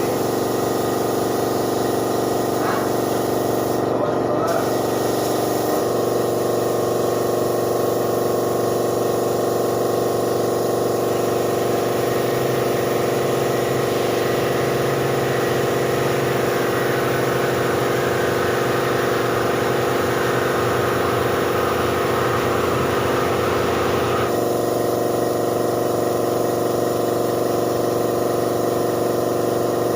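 Air compressor running steadily, with a spray gun hissing through the middle of the stretch and stopping abruptly a few seconds before the end.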